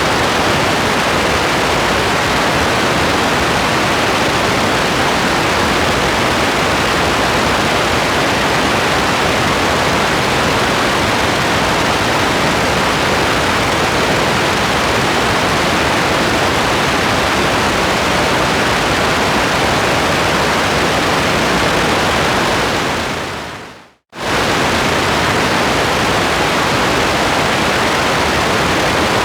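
Steady, dense rain hiss with no separate drops standing out. About 22 seconds in it fades out over a second or two to a brief silence, then cuts straight back in at full level.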